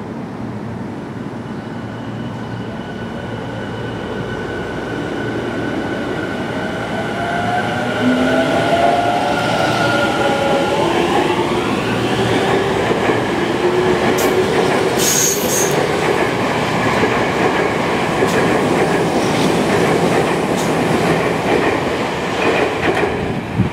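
Tobu 50000 series electric train pulling away and accelerating. Its inverter-driven traction motors whine in several stepped tones that rise in pitch while the sound grows louder, then give way to a running rumble with wheels clicking over the rail joints.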